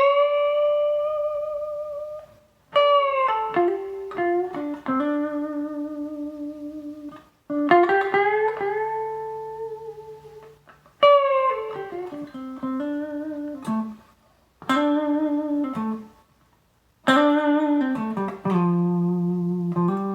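Riggio Tango electric guitar played through a Quilter amplifier with no pedals: a slow single-note melody with string bends and slides gliding into held notes, played in short phrases with brief pauses between them.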